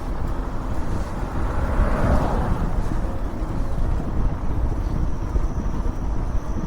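Wind buffeting the microphone of a bike-mounted camera on a moving e-bike, a steady low rumble. There is a brief swell of louder noise about two seconds in.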